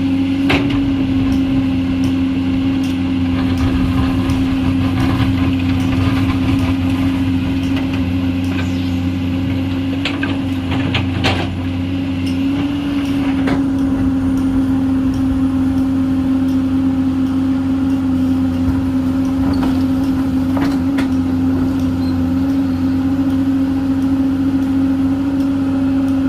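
Komatsu PC210 excavator's diesel engine running steadily under load with a constant hum, while a few sharp knocks of the bucket working rock and soil come through, most of them about ten to eleven seconds in.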